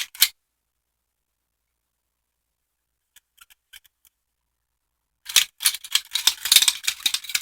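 Metal finger blades of a Freddy Krueger replica glove clicking and scraping against one another, a few faint clicks at first, then a rapid, dense run of clicks starting about five seconds in.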